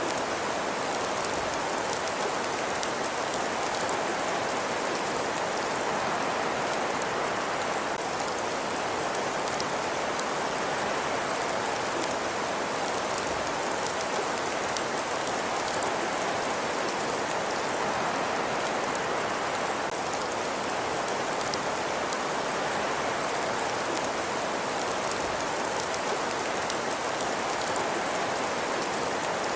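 Fireplace ambience: a wood fire crackling with many small pops over a steady hiss.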